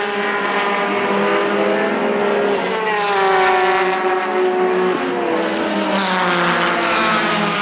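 Race car engines running at speed past the track, loud and continuous. The engine note falls about three seconds in as a car goes by close, then rises again near the end.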